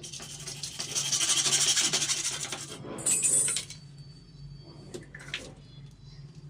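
A tool rasping steadily against CPVC plumbing pipe for about three seconds, followed by a brief higher hiss and a few lighter scrapes and knocks.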